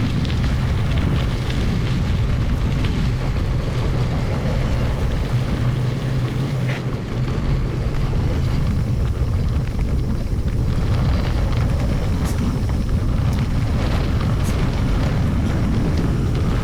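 Steady wind buffeting on the microphone of a camera riding a mountain bike on a forest road, with the rumble of the ride underneath, sped up to double speed.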